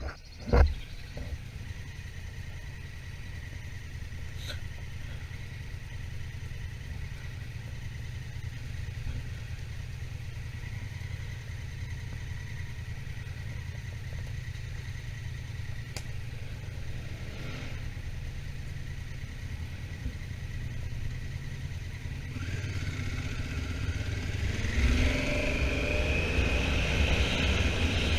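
Honda Africa Twin motorcycle riding along, a steady low engine rumble with wind noise. There is a sharp knock about half a second in. Near the end it gets louder and the engine note rises as the bike accelerates.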